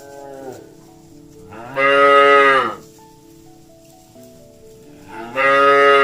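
Cattle mooing: a short moo at the start, then two long, loud moos about three seconds apart, each sagging in pitch as it ends. Faint background music with held notes plays underneath.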